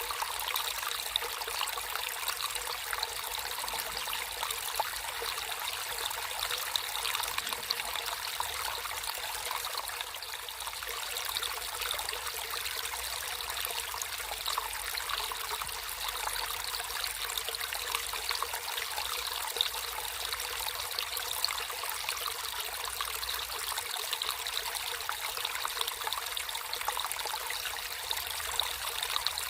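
Natural flowing water trickling and splashing steadily, like a small stream, with a light, bright sound and no deep rush.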